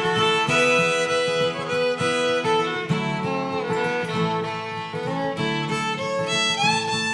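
Instrumental break in a country song: fiddle playing the melody over acoustic guitar, with a note sliding up near the end.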